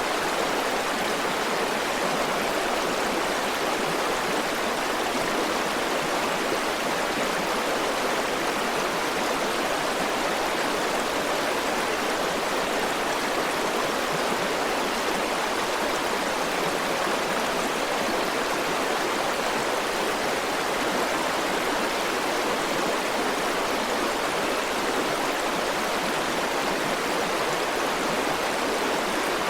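River water flowing steadily over rocks, a continuous rushing with no change in level.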